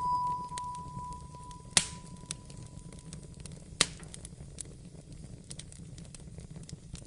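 Wood fire crackling in a fireplace: a steady low rumble with scattered small crackles and two sharp pops, about two and four seconds in. A soft high note from background music fades away in the first few seconds.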